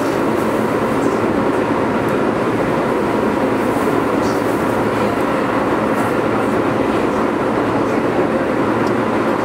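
Keio 8000 series electric train running steadily between stations, heard from inside the car above its inverter: a constant loud rumble of wheels and running gear, with no clear change in speed.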